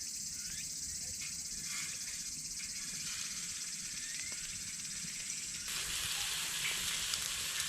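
Steady high chorus of insects with a few short bird chirps; about three-quarters of the way through, a loud hissing sizzle starts as vegetables hit a hot pan.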